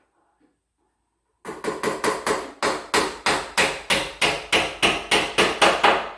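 Hammer tapping small nails into the wooden closet unit: a quick, steady run of about four or five blows a second that grows a little louder toward the end.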